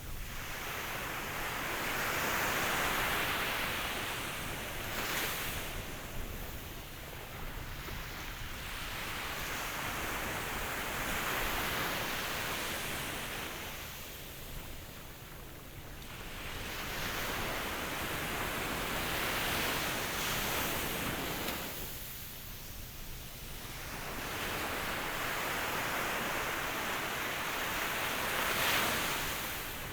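Ocean surf: waves swelling and washing back in slow surges, four in this stretch, roughly eight seconds apart.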